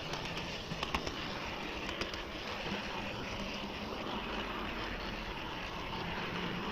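HO-scale model train running along the track, a steady rolling rumble and hiss with a few sharp clicks about one and two seconds in, as of wheels passing rail joints.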